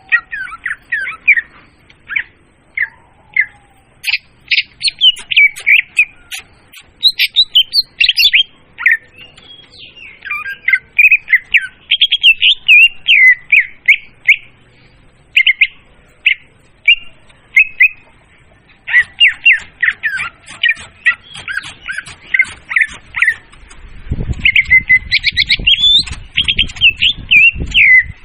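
Leafbird (murai daun) song used as a lure call: a fast, varied stream of high chirps, whistles and chattering trills, loud and clear. Near the end a low rumbling noise runs under it for a few seconds.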